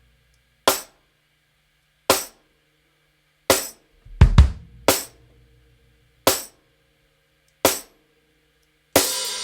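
Drum kit playing sparse single hits, about one every second and a half, with a quick double hit near the middle. Near the end the kit comes in fully, with a cymbal wash and busy, fast playing.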